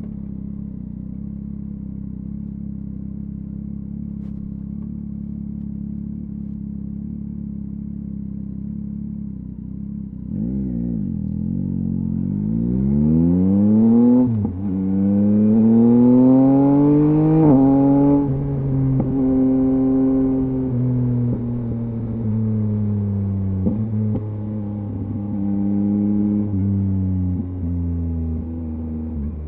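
A 2023 Yamaha MT-09's three-cylinder engine through a LeoVince LV Race exhaust. It idles steadily for about ten seconds, gives a short blip of the throttle, then accelerates hard with a rising pitch and two upshifts. It then settles into a steady cruise with small throttle changes.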